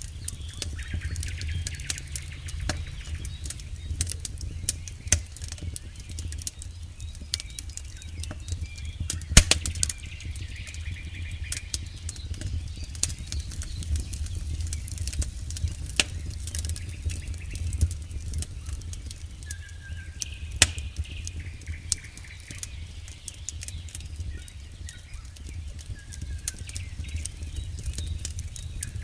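Campfire crackling steadily, with a sharp pop about nine seconds in and another about twenty seconds in, over a low steady rumble.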